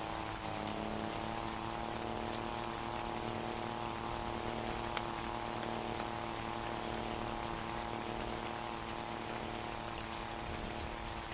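Scania Super 540 truck's straight-piped inline-six diesel running at steady revs. Its pitch finishes climbing about half a second in and then holds, under a steady hiss.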